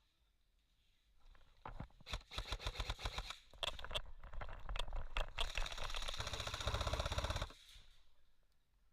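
Airsoft gun firing full-auto: several short strings of rapid shots, then one longer unbroken burst of about two seconds that stops suddenly.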